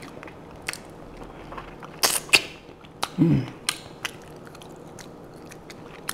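Close-miked eating sounds from chewing lamb off the bone: wet mouth clicks and smacks, a louder crackling burst about two seconds in, and a short hummed "mm" about three seconds in.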